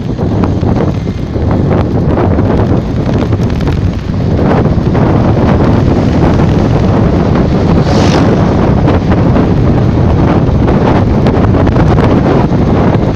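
Loud wind buffeting a phone's microphone while riding a bicycle, with a stream of short knocks and rattles from the bumpy ride.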